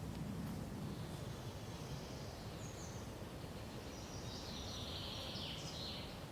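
Forest ambience: a steady soft hiss with high-pitched bird calls, a short call about two and a half seconds in and a longer run of twittering notes near the end.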